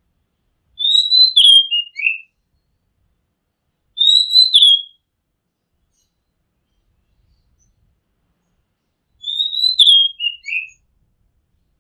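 Oriental magpie robin singing: three short, high whistled phrases a few seconds apart. Each phrase is a rising note that breaks into lower, falling notes.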